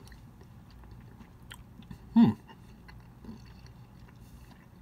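A person quietly chewing a mouthful of soft macaroni and cheese with chunks of buffalo chicken. About two seconds in there is one brief, loud, low hum that falls in pitch.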